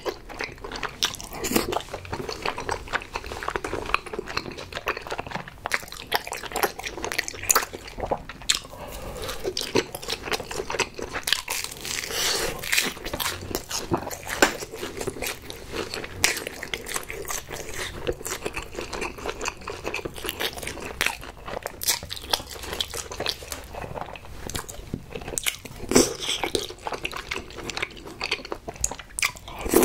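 Close-miked mouth sounds of a person chewing and biting food, chewy rice cakes (tteokbokki) in spicy sauce, as a dense run of many short, irregular clicks and smacks.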